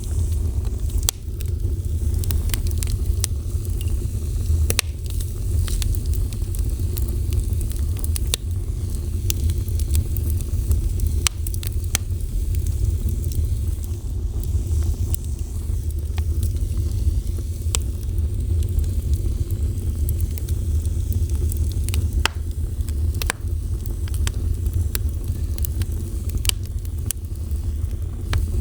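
Fire burning: a steady low rumble of flames with frequent irregular sharp crackles and pops.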